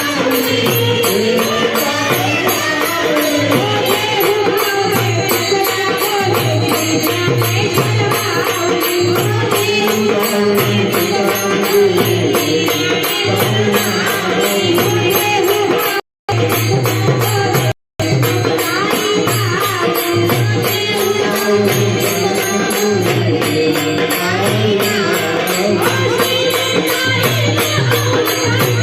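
A woman singing a Marathi devotional bhajan over steady rhythmic percussion. The sound cuts out twice for a moment, about two-thirds of the way through.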